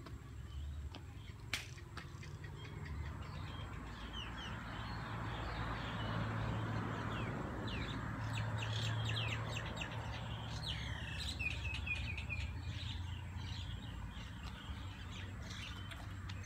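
Small birds chirping over and over, busiest in the second half, over a steady low background rumble.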